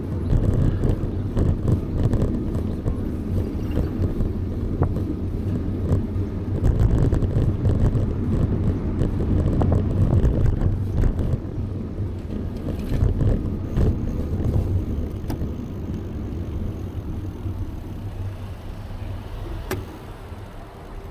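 Low, fluctuating rumble of wind and road noise on the microphone of a moving bicycle, with a few light clicks, easing off over the last few seconds.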